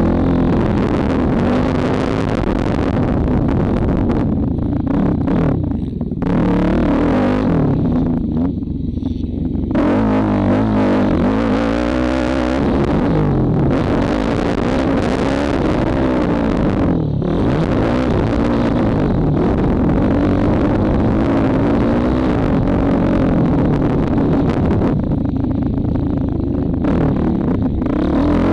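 Single-cylinder four-stroke engine of a 2004 Honda CRF450R motocross bike, heard close up, its pitch rising and falling with the throttle as it is ridden around the track. There are brief lulls about six and nine seconds in.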